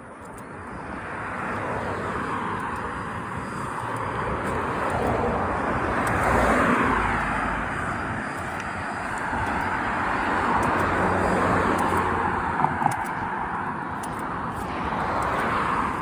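Cars passing on a road, their tyre and engine noise swelling and fading one after another; the loudest goes by about six to seven seconds in, its pitch dropping as it passes.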